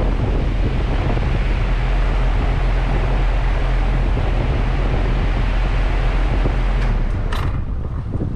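Central air conditioner's outdoor condensing unit running with a steady low hum under a rush of fan noise. About seven seconds in the hum cuts out and the sound drops away, with a short hiss, as the unit shuts down.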